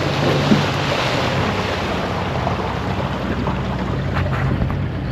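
Motorboat under way, its engine running steadily beneath the rush of water against the hull, with wind buffeting the microphone.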